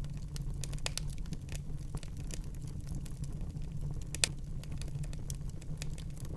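Wood fire burning in a fireplace: a steady low rumble of the flames with irregular crackles and small pops, one sharper pop about four seconds in.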